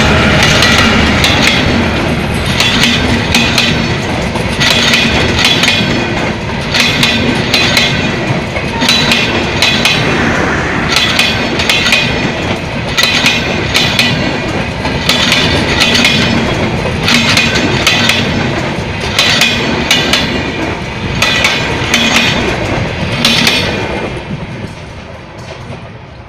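Train wheels clattering over rail joints: clusters of sharp clicks recurring about once a second over a steady low rumble, fading in the last couple of seconds.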